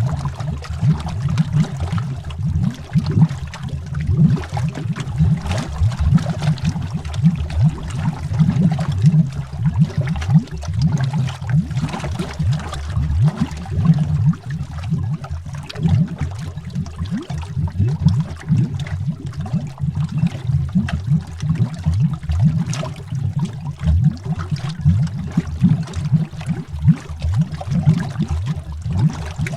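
Continuous underwater bubbling: a steady deep rumble with a rapid, irregular stream of bubble pops.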